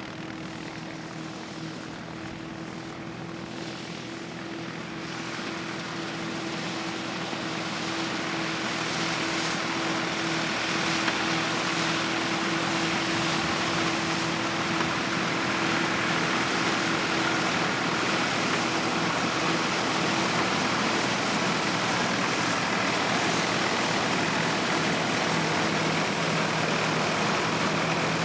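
Vintage harvest machinery running with a steady engine drone. It grows louder over the first ten seconds or so, then holds steady.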